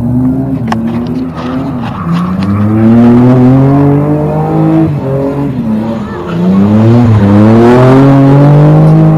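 A car engine pulling hard, its pitch climbing steadily, dropping about five and a half seconds in, then climbing again and holding high near the end.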